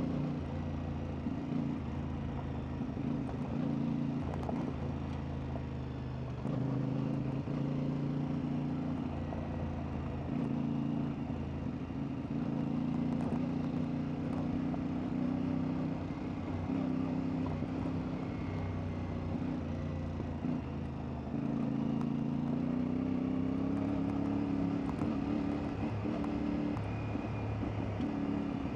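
CFMoto 450MT's parallel-twin engine running under way, its pitch moving with the throttle: a step up about a quarter of the way in and a steady climb near the end.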